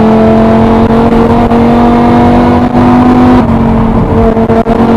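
BMW E60 M5's 5.0-litre V10 pulling hard, heard from inside the cabin: a loud, steady engine note climbing slowly in pitch. The note breaks off about three and a half seconds in and settles a little lower.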